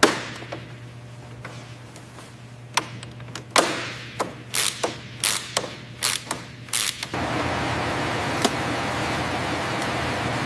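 Assembly-shop sounds: a sharp knock at the start, then a quick run of about a dozen clicks and knocks of tools on metal parts. About seven seconds in, a steady hiss of machinery or air handling sets in over a low hum.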